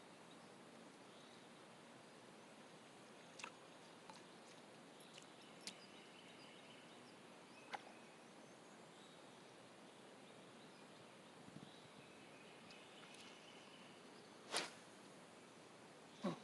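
Near silence: faint lakeside ambience with a few scattered sharp clicks and faint high chirps.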